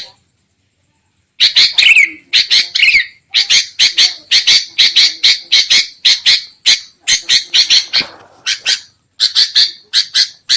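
Sooty-headed bulbul (kutilang) giving a fast, harsh, agitated chatter of short notes, several a second, starting after about a second and a half of silence; a lure call for trapping wild bulbuls.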